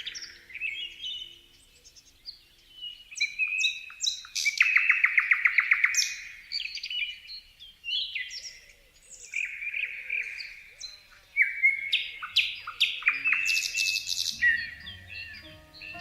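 Songbirds singing and calling, with many short chirps and whistles overlapping, and a fast, loud trill about four to six seconds in.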